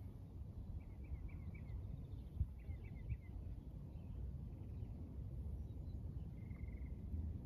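Birds singing: two short runs of quick chirps, then a steady buzzy trill near the end, over a steady low outdoor rumble. A single soft knock about two and a half seconds in.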